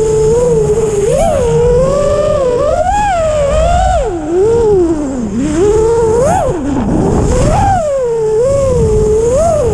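Brushless Hyperlite 2408.5 motors and propellers of a 6-inch FPV racing quadcopter whining in flight. The pitch swoops up and down constantly with the throttle, dipping low about five and seven seconds in, over a low rumble.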